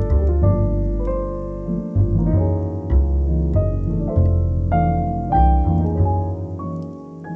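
Calm, slow piano music: single notes struck every half second to a second and left ringing over deep low bass notes.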